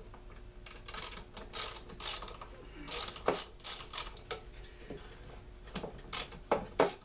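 Irregular clicks, ticks and short scrapes of hand tools and plastic parts as a Stihl BG 56 C leaf blower's housing is taken apart by hand.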